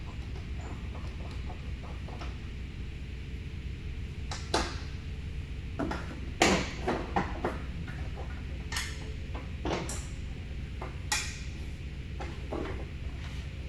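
Scattered metallic clinks and knocks of steel bumper parts and mounting bolts being handled and fitted on a pickup, a dozen or so irregular strikes, over a steady low hum.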